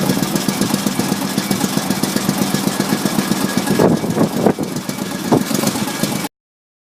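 Early licensed De Dion-copy car engine running with a rapid, uneven run of firing pulses, a few louder knocks about four seconds in. The sound cuts off suddenly near the end.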